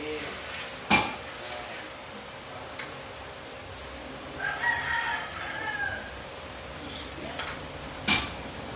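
A rooster crowing once, about a second and a half long. Two sharp metal clanks come about a second in and near the end.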